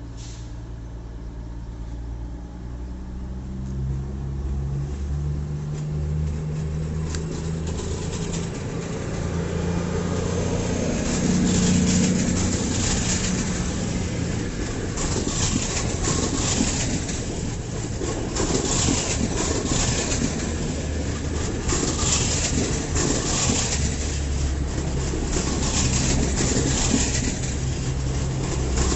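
Diesel train running at a station, its engine drone growing louder as it nears, with regular clattering about once a second in the second half.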